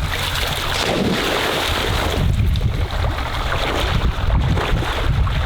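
Wind buffeting the microphone, with a steady rushing, splashing noise.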